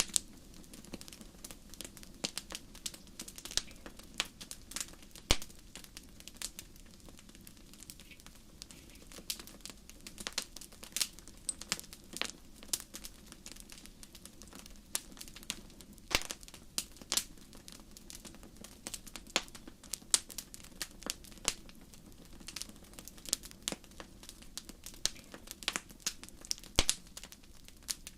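Crackling fire: irregular pops and snaps of varying loudness over a low steady rumble.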